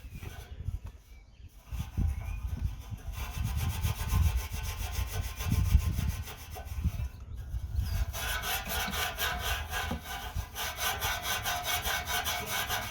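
Wire wool loaded with Autosol metal polish being rubbed rapidly back and forth over a metal exhaust tip: a rhythmic scrubbing with dull knocks underneath, breaking off briefly about a second in and again about seven seconds in.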